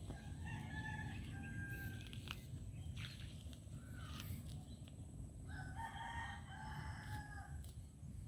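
Rooster crowing twice, a few seconds apart.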